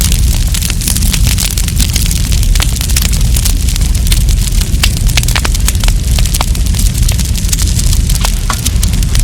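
Wood campfire crackling, with many sharp irregular pops over a steady low rumble.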